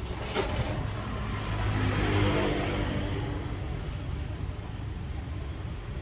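A motor vehicle passing by, swelling to a peak about two seconds in and then fading, over a steady low hum.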